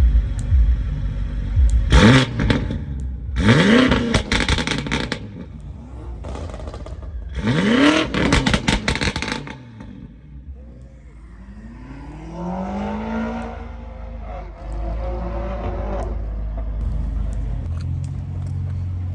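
A car engine revved hard three times in quick succession, the pitch sweeping up and dropping back on each blip, then a slower, quieter rise and fall in engine pitch.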